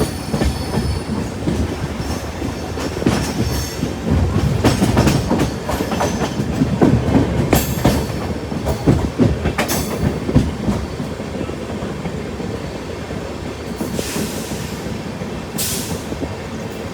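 Passenger train running on the rails: a steady low rumble with wheel clatter and knocks, busiest in the middle, and two short hissing bursts near the end.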